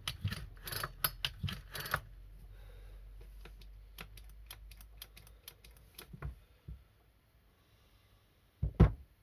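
McCulloch 438 chainsaw's recoil starter being pulled, the engine turning over with quick ratchety clicking, with plenty of compression felt. After about two seconds come lighter clicks of the saw being handled, and one loud knock near the end.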